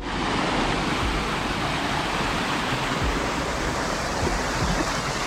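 Rushing water of a river or stream, a steady loud wash with no let-up.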